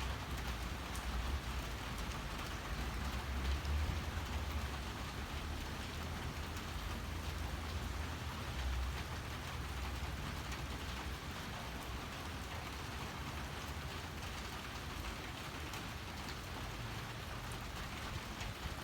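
Steady rain falling, an even hiss of drops with a low rumble of wind underneath that swells and eases.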